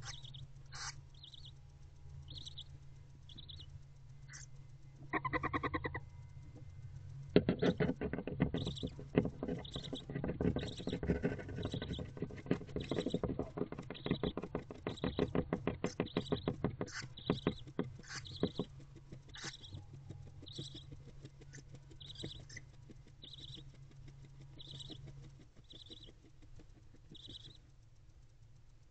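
Barn owl hatchling giving short, high peeps, repeated evenly about every 0.7 s. A louder run of rapid clicking and rustling comes in around 7 seconds in and fades out by about 18 seconds in.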